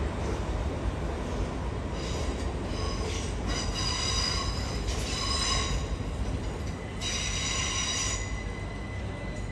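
A train moving through the station with its wheels squealing on the rails: high-pitched squeals come and go in about three spells, the longest about two and a half seconds, over a steady low rumble of the train.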